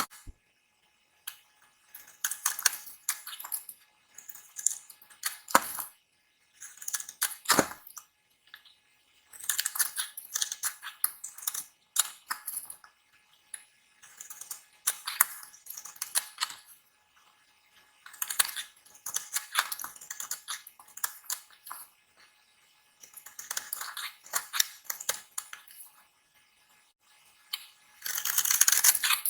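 Blade cutting into dry bar soap: repeated bursts of crisp, crackly scraping, each a second or two long, separated by short silences.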